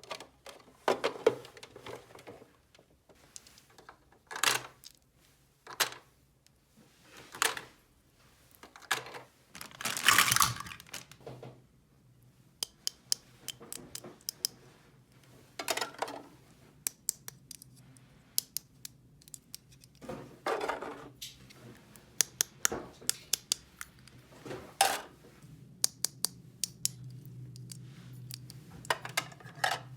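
Small plastic toy pieces being handled: scattered sharp clicks and taps with short rustling bursts, some close together and some a few seconds apart, the loudest a bit after ten seconds in.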